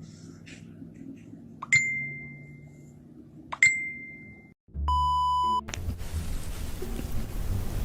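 Two bright dings about two seconds apart, each ringing briefly and fading, then a short steady beep. After the beep a rough, noisy sound builds.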